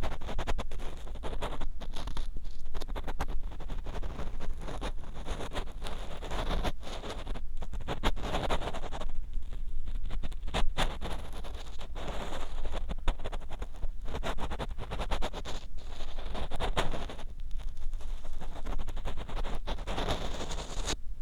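Ear pick scraping and scratching inside the ear of a 3Dio binaural microphone: a close, continuous run of crackles, rubs and sharp clicks that swells and eases every few seconds, over a steady low rumble.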